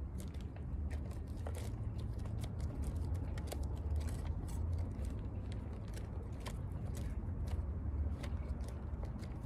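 Irregular small clicks and taps of hand-crafting work on meteorite accessory pieces, over a steady low rumble.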